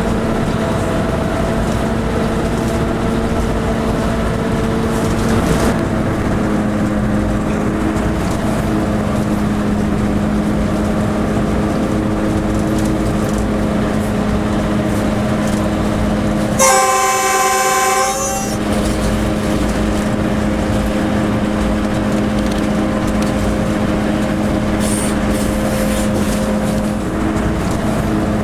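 Railway locomotive running, heard from inside its cab as a steady drone with a held low hum. About two-thirds of the way through, the locomotive's horn sounds once for about two seconds.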